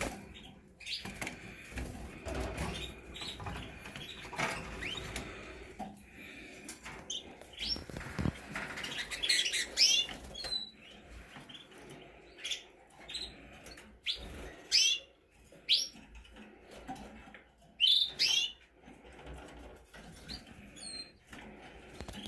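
Canaries chirping in short, sharp, scattered calls, with rustling and wing fluttering in the first few seconds.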